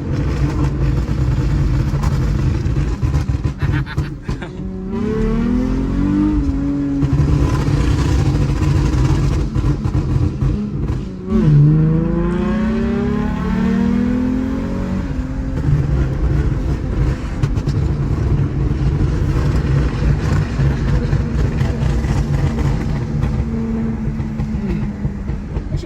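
Toyota 2GR-FSE 3.5 L V6 running through a stainless valvetronic exhaust with the valves open, as the car drives. The revs climb about four seconds in, then drop and climb again about halfway through, between stretches of steady running.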